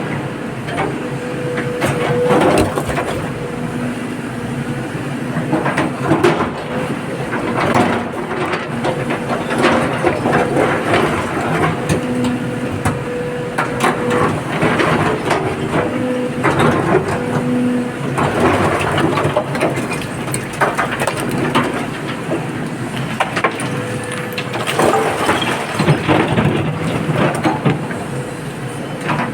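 Excavator loading rock into a dump truck: its diesel engine runs steadily under load while stones clatter and crash irregularly throughout.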